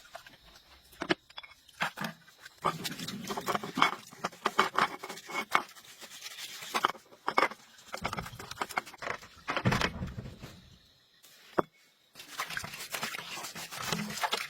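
Irregular clinks, knocks and scrapes of hand tools and metal parts being handled, with a short lull about three-quarters of the way through.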